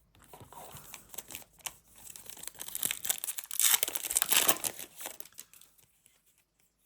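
A trading-card pack's wrapper being torn open and crinkled by hand, a dense crackling that is loudest in the middle and stops about a second and a half before the end.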